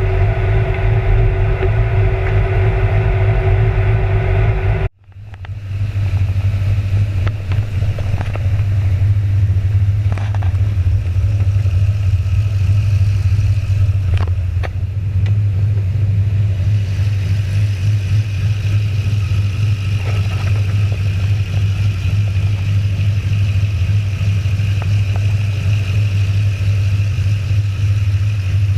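Turbocharged, cammed 2010 Chevrolet Camaro SS V8 running steadily at idle. The sound cuts out suddenly about five seconds in and fades back within a second.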